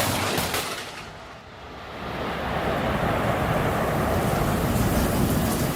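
Thunder from a nearby lightning strike: a sharp crackling crack at the start that fades, then a deep rumble that builds from about two seconds in and keeps rolling.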